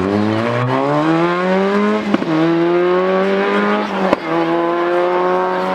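A Peugeot 106 rally car's engine accelerating hard away from a corner. Its pitch climbs steadily, drops sharply on an upshift about two seconds in and again about four seconds in, then climbs again.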